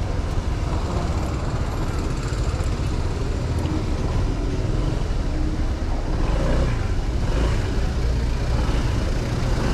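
Honda 125 cc motorcycle on the move, its engine and the rush of the ride making a steady low rumble.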